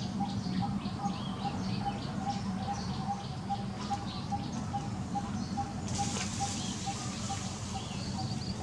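Birds chirping outdoors in quick high notes, with another call pulsing steadily about three times a second, over a low steady hum; a short burst of noise about six seconds in.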